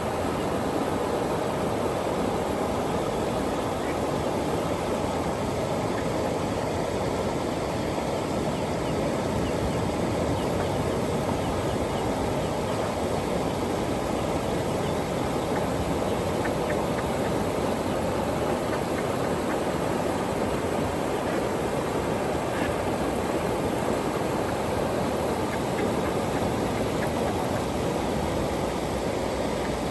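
South Platte River flowing past, a steady rushing of water.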